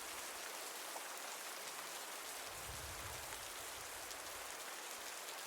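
Steady rain falling, an even hiss of rain with no change in strength.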